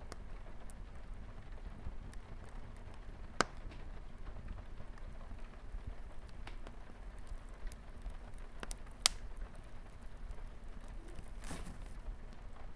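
Light rain pattering on a window under a wood fire crackling, with scattered small snaps and two loud sharp pops.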